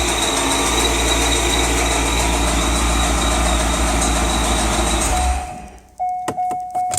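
2003 Corvette Z06's LS6 V8 engine running, recorded for a knocking noise, then switched off about five seconds in. A repeating electronic chime follows in the last second.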